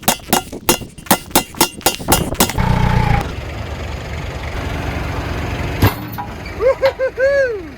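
A rapid run of about a dozen sharp metal strikes, roughly five a second, as a truck wheel and tire are knocked apart. This gives way to a steadier noisy stretch with one more knock near six seconds in, then a few short rising-and-falling pitched sounds near the end.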